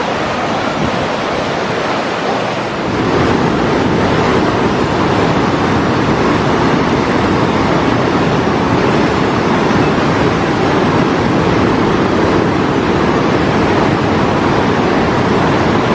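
Rushing floodwater of a swollen river in a tropical storm: a loud, steady rush that grows louder about three seconds in.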